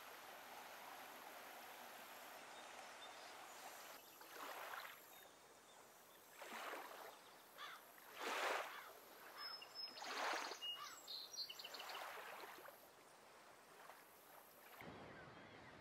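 Faint water: a steady wash, then a run of swooshes about every two seconds, with a few faint bird chirps among them.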